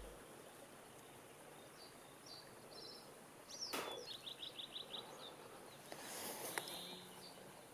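Faint birdsong: scattered high chirps and a quick run of about five short notes in the middle, with one soft click a little before that.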